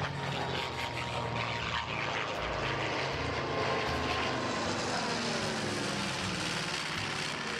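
Propeller-driven airplane flying low overhead, its piston engine and propeller running loud, the pitch dropping in the second half as it passes.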